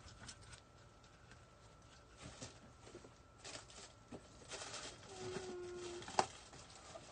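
Soft rustling and scattered light clicks of small craft decorations being sorted through while searching for a small ball ornament, with one sharper click about six seconds in.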